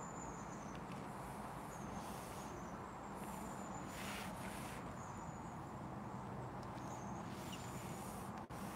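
Quiet outdoor ambience: a low steady hum and soft background noise, with short, high, thin bird calls repeating every second or so.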